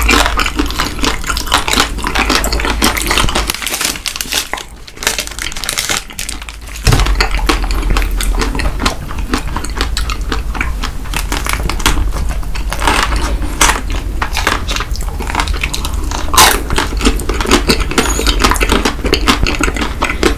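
Close-miked chewing and crunching of chocolate candy bars, a dense run of crisp crackles and clicks, easing briefly about four to six seconds in before a fresh bite.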